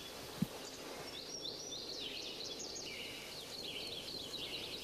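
Forest birds chirping and twittering, many quick calls one after another over a steady outdoor hiss. A single short low thump about half a second in.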